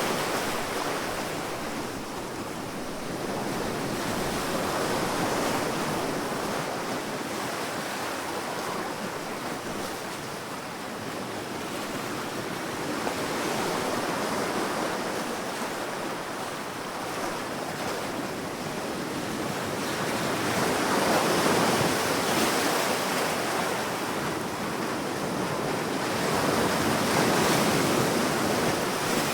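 Sea waves breaking and washing up a sandy beach, the surf rising and falling in slow swells every several seconds, with the biggest wave about two-thirds of the way through.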